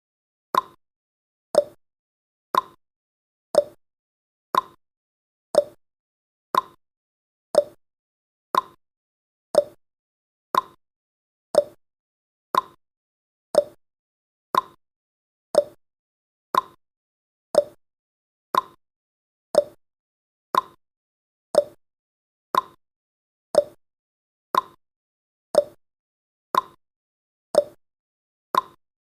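Countdown timer's ticking sound effect, like a clock: one short, sharp tick each second, evenly paced.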